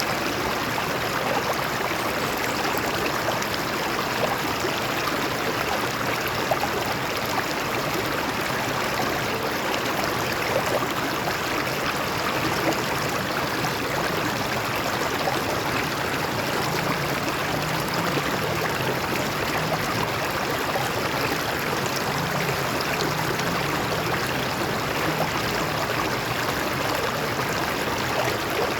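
Water of a stream flowing over rocks: a steady, unbroken babble.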